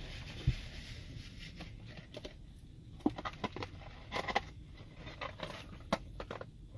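Fast-food wrapper and packaging crinkling and clicking in short, scattered bursts as food is handled and eaten, with a cluster of crackles midway.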